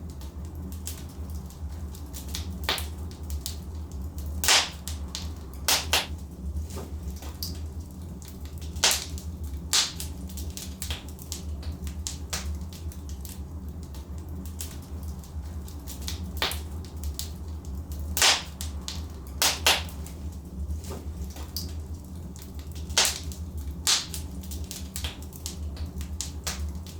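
Wood fire in a fireplace, burning logs crackling and popping irregularly over a low steady rumble of the flames, with a dozen or so sharp louder pops.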